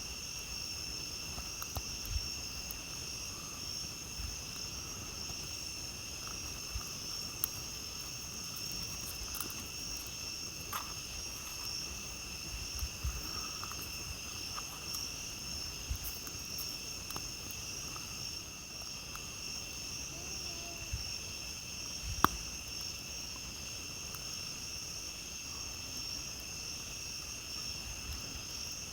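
Steady chorus of night insects, with two unbroken high trilling pitches. Scattered small crackles from a campfire sound over it, with one sharper pop about three-quarters of the way through.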